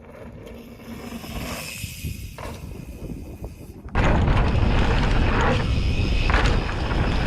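Faint outdoor background with a few light clicks, then about four seconds in a sudden, steady loud rush of wind buffeting the action camera's microphone, heaviest in the low range.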